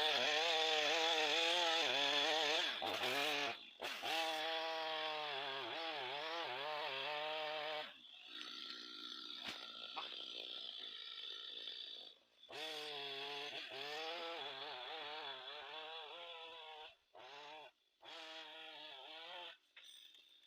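Two-stroke chainsaw cutting into a tree, its engine pitch wavering up and down under load. The sound cuts off abruptly several times, with a quieter stretch of lighter noise and a few clicks in the middle.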